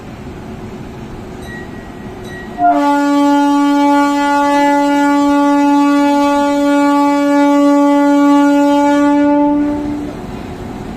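Train horn sounding one long, steady blast of about seven seconds, starting a few seconds in, over the continuous rumble of the moving train.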